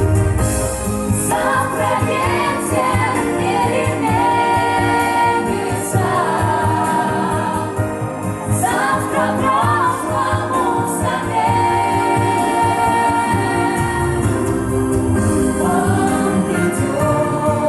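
Music with singing: voices sing long, wavering melody notes in phrases over backing music with a steady bass.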